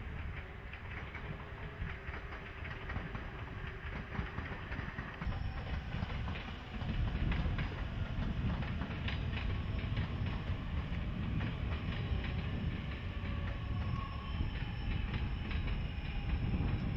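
A JR 383-series electric limited-express train running past, with steady wheel-on-rail rumble and a clickety-clack of wheels over rail joints, getting clearly louder about seven seconds in.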